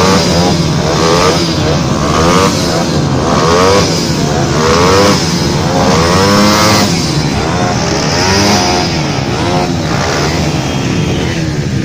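Several motorcycle engines revving over and over, their pitch rising and falling in quick overlapping blips over a steady low idle rumble.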